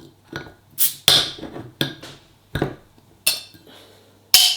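Handling of a beer glass and bottles on a table: about six sharp knocks and clinks with short ringing tails, the loudest near the end.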